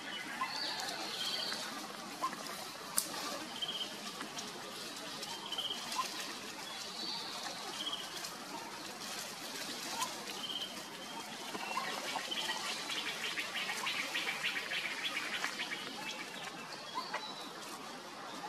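Birds chirping: a short high call repeats about every second, with a fast rattling trill for a few seconds past the middle and a few sharp clicks.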